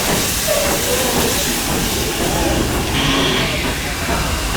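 Steam train noise: a steady hiss of steam over a low rumble.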